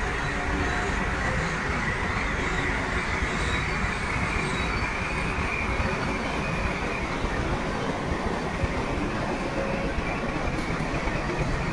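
Crawler bulldozer working: steady engine noise under the clank and high squeal of its steel tracks.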